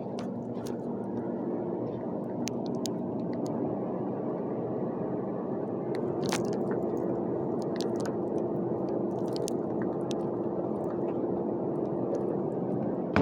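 Steady shop hum with several constant low tones, with faint scattered clicks and rustles over it.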